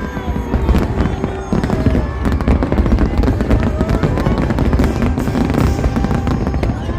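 Fireworks display with a rapid, overlapping barrage of bangs and crackling from bursting aerial shells over a continuous low rumble.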